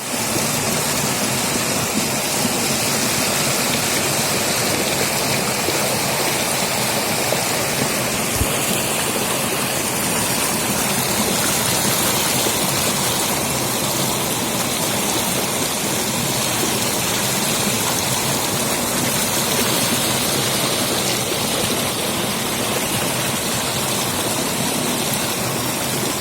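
Small stream flowing: a steady rush of running water.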